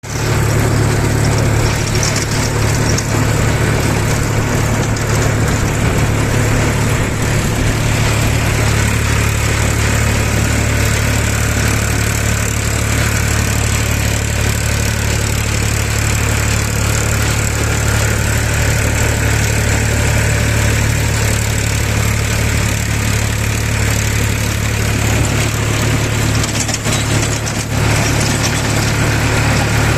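Powertrac tractor's diesel engine running at a steady speed, with a constant low drone.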